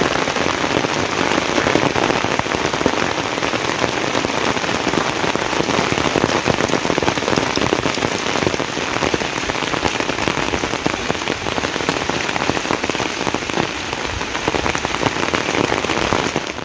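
Steady heavy rain: a loud, dense hiss of raindrops striking a surface close by.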